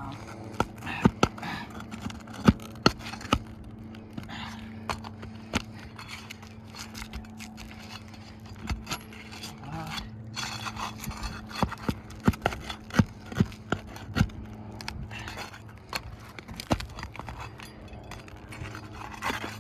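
A metal hand tool scraping and prying under asphalt shingles to work roofing nails loose, with many sharp clicks and knocks scattered throughout.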